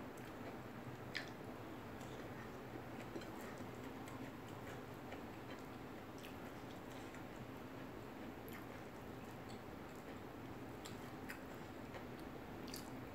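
Faint chewing of a meal eaten by hand, with scattered soft clicks over a low steady hum.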